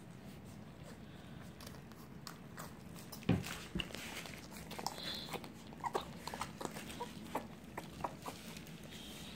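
A litter of puppies suckling at their mother: scattered small clicks and smacks, with a louder bump about three seconds in.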